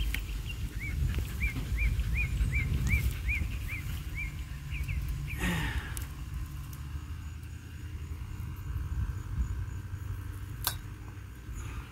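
A bird calling a quick series of about ten identical arching chirps, roughly three a second, which stop about four seconds in, over a low rumble. A single sharp click near the end.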